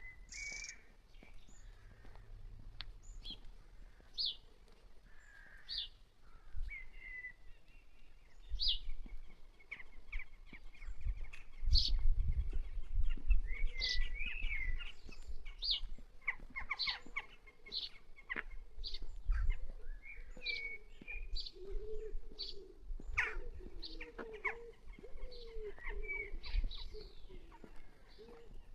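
Songbirds chirping and tweeting, with short high calls repeating throughout. A lower, wavering call joins from about halfway, and there is a brief low rumble about twelve seconds in.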